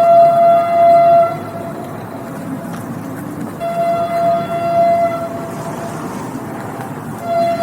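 Train horn sounding in three blasts: one held over the first second or so, a second about three and a half seconds in lasting under two seconds, and a third starting near the end. Under the blasts is the steady rumble of the train running on the rails.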